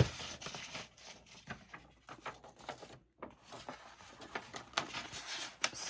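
Paper and craft supplies being handled on a work table: light paper rustling with scattered small taps and clicks, a sharper tap at the start and a short lull about three seconds in.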